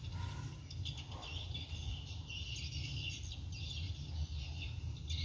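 Small birds chirping and twittering in quick, busy bursts over a steady low rumble.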